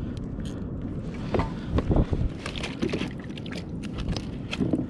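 Irregular knocks, clicks and thuds of handling on a kayak, over a steady wash of water and wind noise, with the loudest thuds a couple of seconds in.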